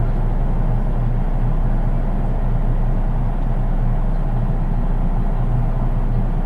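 Cabin running noise of a JR East 183 series DC electric train, heard in its unpowered KuHa driving trailer car: a steady low rumble of wheels on rail and body noise, with no traction-motor whine.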